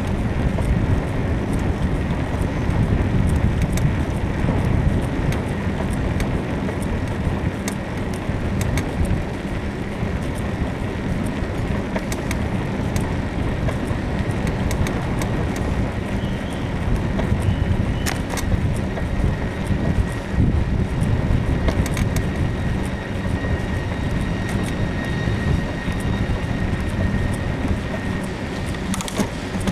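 Riding a bicycle: a steady rumble of wind and rolling noise, with irregular short clicks and creaks from the frame's suspension, which the rider puts down to a worn suspension bushing.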